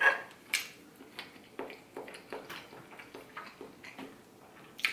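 Close-miked eating sounds: chewing with irregular wet mouth clicks and smacks. A fork clicks on the plate right at the start.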